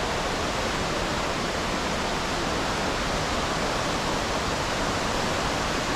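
Waterfall rushing steadily in full flow, swollen after heavy rain.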